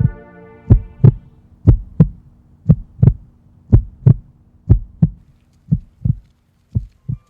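Heartbeat sound effect: paired lub-dub thumps, about one beat a second, seven beats in all, over a faint sustained drone.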